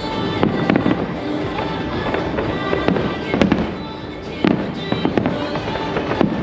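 Fireworks going off in an irregular string of sharp bangs, some close together, over music playing.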